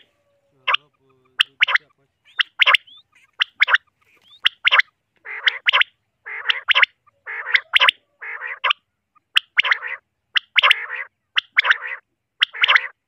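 Common quail calling over and over: short, sharp notes in quick pairs and threes about once a second. From about five seconds in, each group is led by a low, raspy growl.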